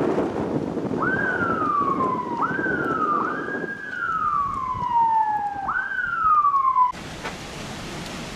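Emergency vehicle siren sounding four short wails over a low rumble of wind noise. Each wail jumps up quickly and then slides slowly down in pitch. The sound cuts off abruptly near the end, leaving a faint hiss.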